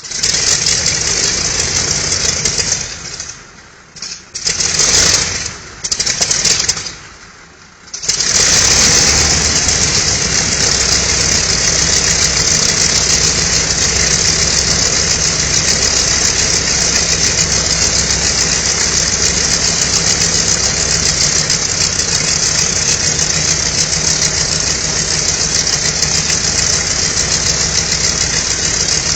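Mitsubishi A6M Zero fighter's radial aircraft engine starting: it sputters and coughs in several separate bursts with gaps, catches about eight seconds in, and then runs steadily at idle.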